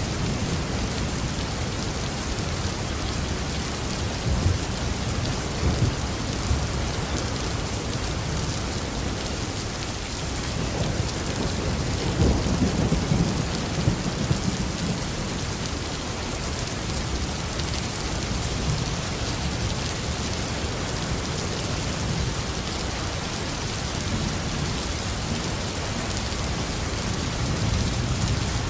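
Steady heavy rain falling on a roof, with a low roll of thunder swelling about twelve seconds in and fading over a few seconds.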